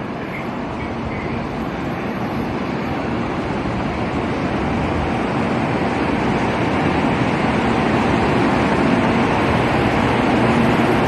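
Kyushu Shinkansen train running: a steady rushing rumble with no distinct tones that grows gradually louder.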